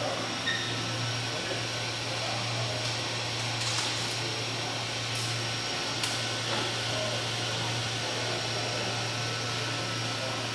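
Three-phase 5 hp electric motor running steadily: a constant low hum under an even whirring hiss, with a few short clicks near the middle.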